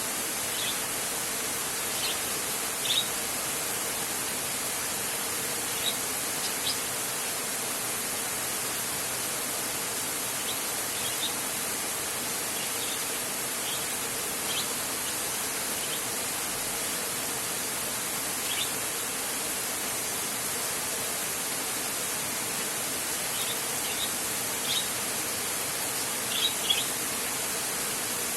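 Heavy rain falling steadily on a metal roof as an even hiss, with a few short high chirps scattered through it and no thunder.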